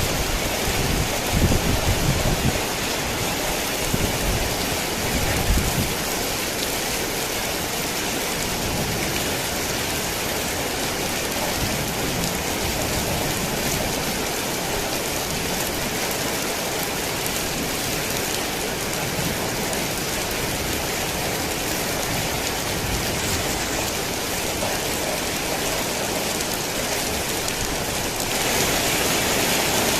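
Heavy rain falling steadily, with low thunder rumbling in the first few seconds. About 28 seconds in the rain turns abruptly louder and brighter.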